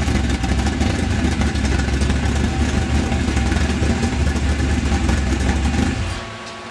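Chevy 350 small-block V8 with dual four-barrel carburetors running steadily on an engine test stand, then stopping about six seconds in.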